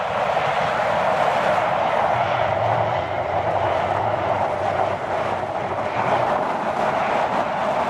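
MAN rally-raid race truck driving, a steady rushing drone of engine and tyres with a low engine hum coming through in the middle of the stretch.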